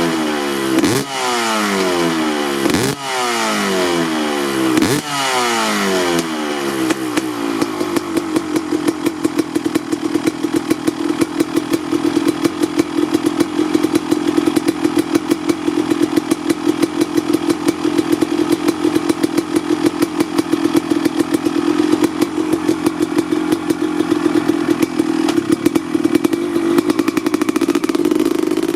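Honda CR250R two-stroke single-cylinder engine warming up. For the first six seconds the throttle is blipped about once a second, each rev rising sharply and falling away. After that it settles into a steady, popping idle.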